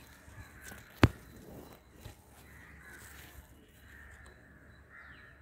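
Birds calling faintly and repeatedly in the background, with one sharp click about a second in, the loudest sound.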